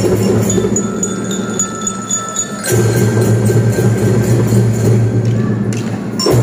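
Kindergarten drum band playing: ringing bell-like metal notes over drums and band.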